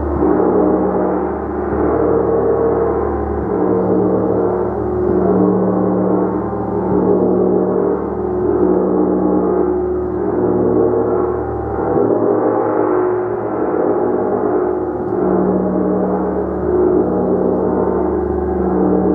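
A gong played continuously, giving a sustained wash of overlapping low and middle tones. The sound swells and eases about every one and a half seconds as new strokes feed the ringing.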